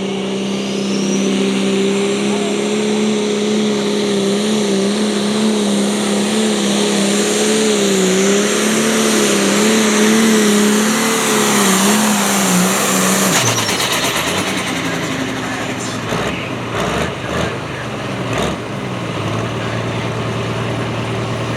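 Pro stock pulling tractor's turbocharged diesel engine running at full throttle under load down the track, its pitch held high and wavering. About thirteen seconds in the throttle is let off and the engine winds down, followed by a few sharp knocks.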